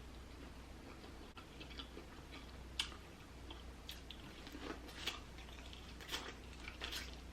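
A person chewing food with the mouth near the microphone, with sharp wet mouth clicks about once a second.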